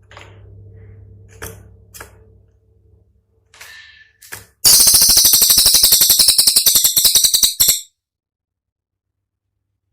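A cililin songbird gives a few short, sharp chips, then a loud, rapid rattling burst of about a dozen notes a second lasting about three seconds, which stops abruptly. This is the harsh 'shot' phrase that keepers play to train other songbirds.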